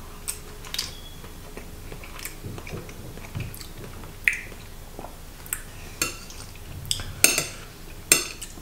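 A person chewing a mouthful of raw salmon sashimi, with scattered small mouth clicks. In the second half, chopsticks click against the plate several times.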